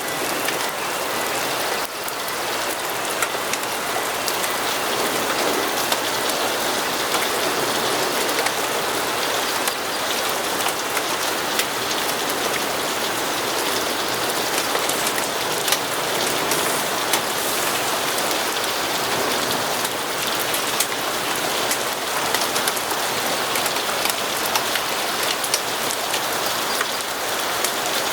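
Steady heavy rain falling on a hard surface, a dense even hiss with many small sharp ticks of drops throughout.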